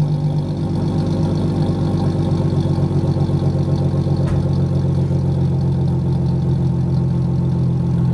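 2001 Plymouth Prowler's 3.5-litre V6 running through a Sweet Thunder muffler with built-in X-pipe and baffle-less exhaust tips, a deep exhaust note. The pitch drops slightly in the first half-second as the revs settle, then it idles steadily.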